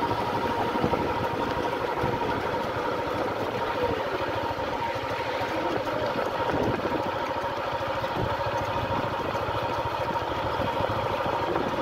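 A vehicle engine running steadily at low speed, heard from the slow-moving vehicle itself.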